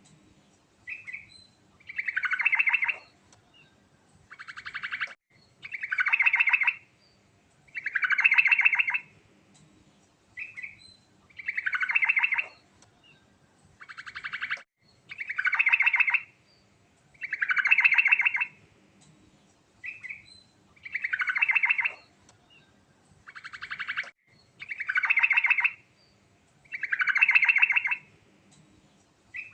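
Yellow-vented bulbul (trucukan) singing: a rapid, rattling, downward-sweeping phrase about a second long repeats roughly every two seconds, with short, higher notes between the phrases.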